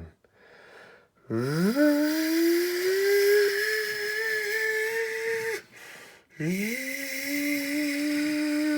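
A man imitating a jet engine starting up with his voice: a breathy hum that rises quickly and then keeps climbing slowly like a turbine spooling up. It breaks off about halfway, then starts again, rises, and holds steady.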